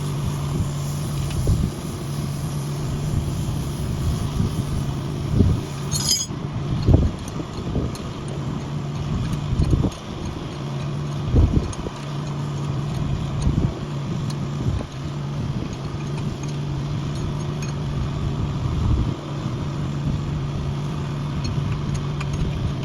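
An engine running steadily at idle, a constant low hum, with scattered knocks and metallic clinks over it and one sharp click about six seconds in.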